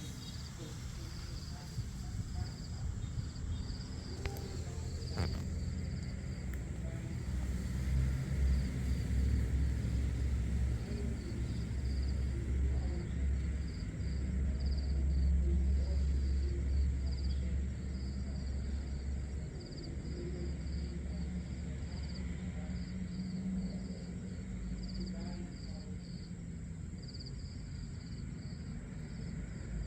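Crickets chirping steadily in a continuous pulsing trill over a low rumble, which swells for several seconds in the middle.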